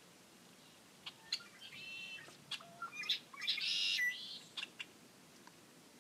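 Small birds chirping: scattered short high chirps, with longer buzzy calls about two seconds in and again around three and a half to four seconds.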